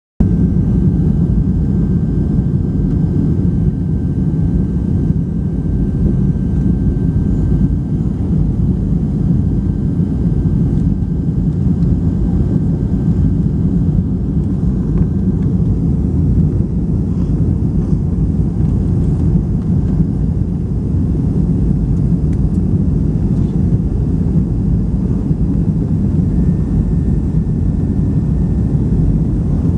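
Boeing 757 cabin noise: a loud, steady low rumble of the engines and airflow heard from inside the passenger cabin, with a faint thin whine in the background for the first half.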